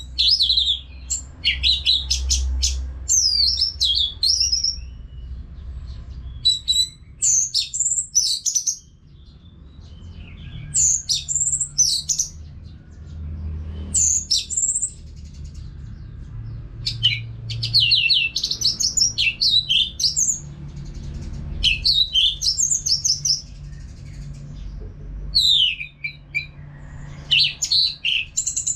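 Orange-headed thrush (Geokichla citrina) singing almost without pause: a string of quick, varied whistled and chattering phrases, each a second or two long with short gaps between them, over a low background rumble.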